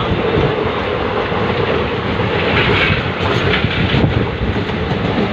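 Jodhpur–Bhopal express train running steadily, heard from the coach doorway as it crosses a river bridge: a continuous rumble with faint clicks from the rails.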